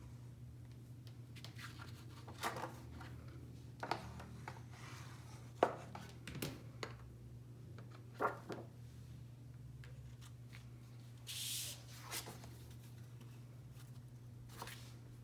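Paper crafting at a table: a cut paper circle being handled and pressed down with glue, giving scattered light taps and clicks and a brief paper rustle about eleven seconds in, over a low steady hum.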